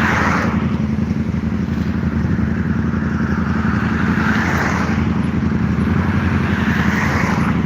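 Road traffic passing at an intersection: a steady low rumble, with tyre and engine noise swelling and fading as about three vehicles go by.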